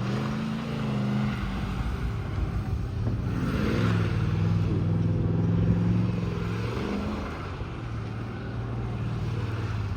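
Triumph Toledo's 3.9-litre V8 engine under load on a timed run. The engine note climbs about three seconds in, holds, and drops back near seven seconds as the car accelerates and lifts off.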